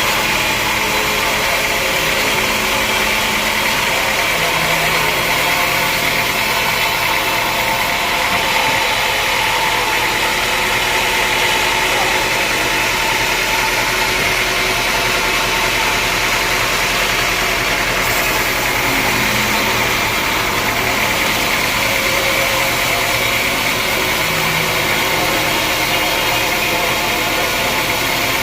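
Sawmill machinery running steadily: a loud, even mechanical noise that does not let up.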